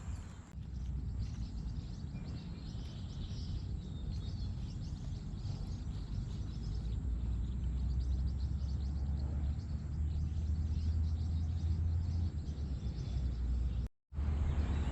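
Outdoor waterside ambience: a steady low rumble with faint bird chirps above it. The sound cuts out completely for a moment near the end.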